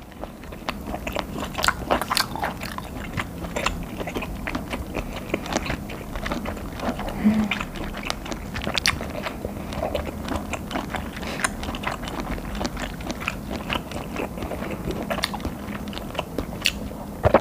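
A person chewing a mouthful of chewy boiled octopus, close-miked, with many small mouth clicks and smacks throughout.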